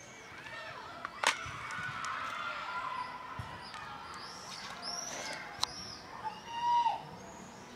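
Small birds chirping over and over with short high calls, with a sharp knock about a second in and a louder short call that rises and falls near the end.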